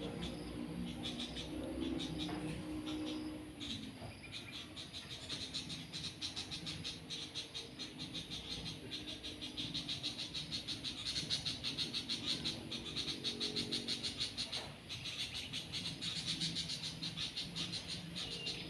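Birds calling with a rapid, repeated high chatter that runs on and off throughout, over a low hum in the first few seconds.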